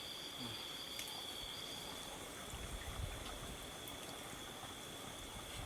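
Forest night ambience: an insect's steady, high-pitched continuous trill, with an occasional low rumble of wind.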